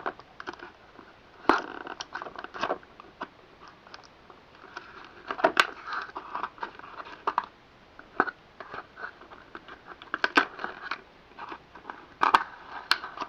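Stiff plastic packaging being cut with a knife and worked apart by hand: irregular crackling, crunching and sharp clicks of hard plastic.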